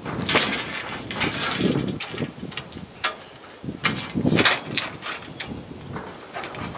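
Irregular scraping and knocking of hand work with parts and tools, the louder knocks scattered through the stretch.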